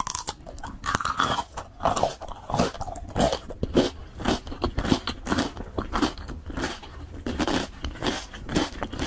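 Crunchy biting and chewing close to the microphone: ASMR eating of papaya salad and crisp raw vegetables, with a run of irregular crunches, one or two a second.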